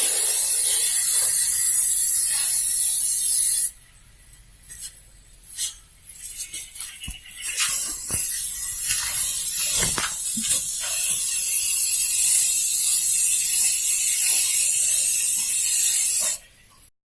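Aerosol spray-paint can spraying in two long bursts of hiss: one of about four seconds, then, after a pause with a few light knocks, a longer one of about nine seconds that stops shortly before the end.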